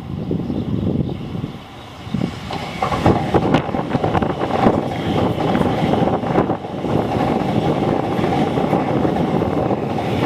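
MTR East Rail line R-Train electric multiple unit passing at high speed: a loud rush of wheels on rail that starts suddenly, dips briefly about two seconds in, then runs on with rapid irregular clatter.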